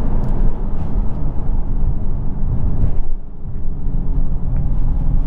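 The 6.4-litre V8 of a Dodge Charger Scat Pack running at low speed while driving, with a brief drop in loudness about three seconds in before it settles into a steady drone.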